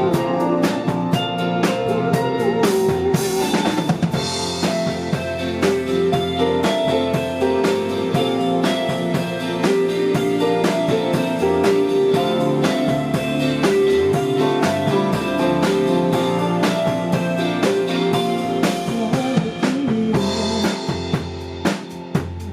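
Band music with a full drum kit, kick and snare hits over sustained pitched instruments, played at a steady loud level.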